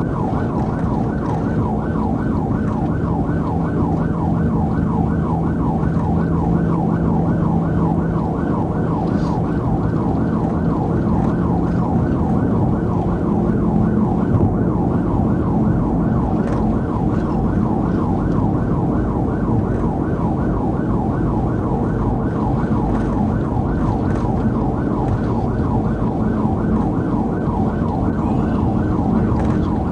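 Police car siren on a fast yelp, rising and falling several times a second, heard from inside the patrol car over its engine and road noise at about 80 mph during a pursuit.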